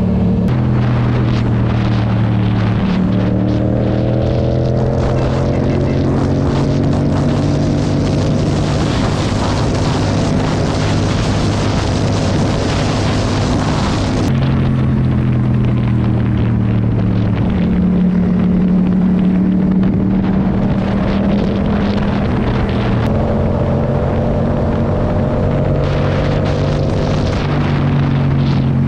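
Motorcycle engine running at road speed under a steady rush of wind, its note rising and dropping several times as the throttle changes.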